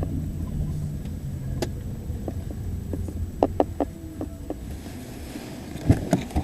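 Steady low rumble, as of a vehicle running, with scattered sharp clicks and knocks: one about a second and a half in, several around the middle, and a couple near the end.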